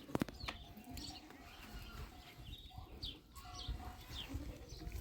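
Birds chirping, short high calls repeating every half second or so over a low rumble, with one sharp click just after the start.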